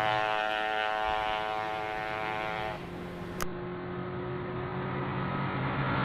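A road vehicle's engine running with a steady hum; a sustained tone fades out about three seconds in, and a single click follows shortly after.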